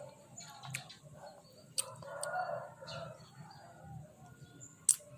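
A rooster crowing about two seconds in, over a low steady hum, with a few sharp clicks; the loudest click comes near the end.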